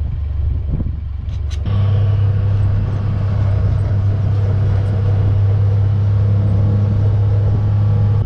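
Motor vehicle engine running at a steady speed while driving. There is a low rumble at first, and about two seconds in the sound switches abruptly to a strong, steady low drone.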